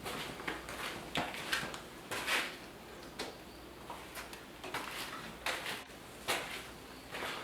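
Hands-on installation work on an LED shop light fixture: about a dozen irregular clicks, knocks and short scrapes, with no steady running sound.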